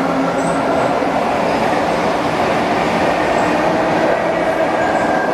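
ED4M electric multiple unit running on the rails: a steady rumble of wheels on track, with a low hum that fades out within the first half-second.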